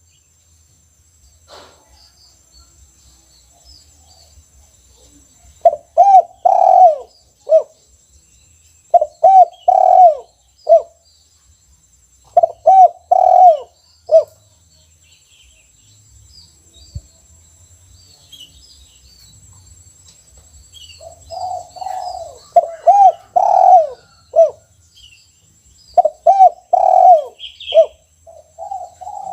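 Spotted dove cooing repeatedly, about five phrases of several low, rounded coos each, separated by pauses of a few seconds. Faint high chirps of small birds sound in the background.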